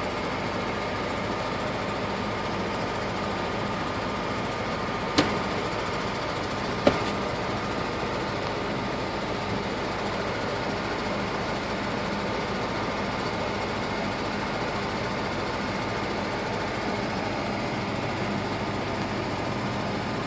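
Vehicle engine idling steadily, heard from inside the cab, with two short sharp knocks about five and seven seconds in.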